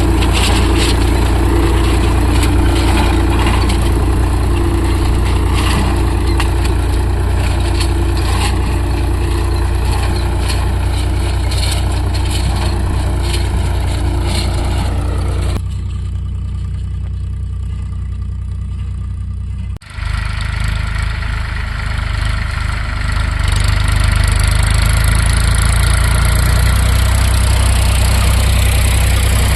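Tractor diesel engine running steadily. It turns quieter and duller abruptly about halfway through, cuts out for an instant a few seconds later, then comes back at full strength.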